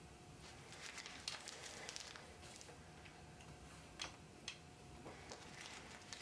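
Faint, irregular clicks and rustles of a small packet being fiddled with in the hands, a cluster of them at first and two sharper clicks about four seconds in, over a quiet room hush.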